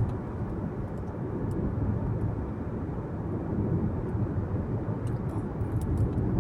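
A car driving along at speed, with a steady low rumble of road and engine noise.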